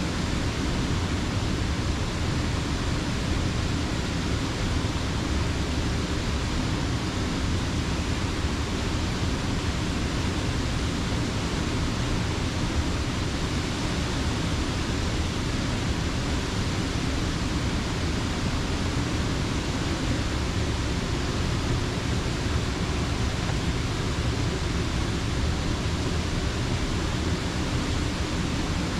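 Steady, unbroken rush of creek water pouring over a mill dam, with a full low rumble and no breaks.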